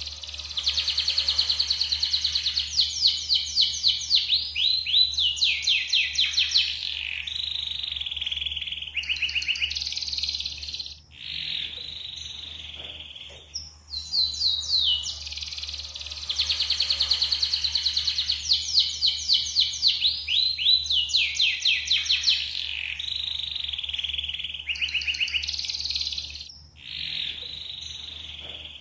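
Yellow canary singing a long song of rapid trills and rolling phrases; the same sequence of phrases plays through twice, over a faint low hum.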